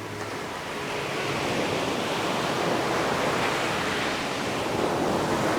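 Ocean surf: a wave rolling in and washing up the beach, the rush of water building over the first couple of seconds and then holding steady.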